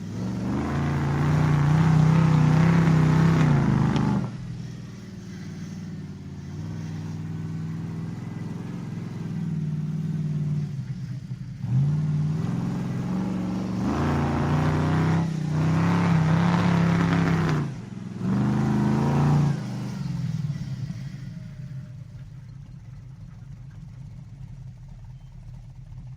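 Monster truck engine driving, opening up in loud revving surges several times, with a lower steady run between them. It settles and fades out near the end.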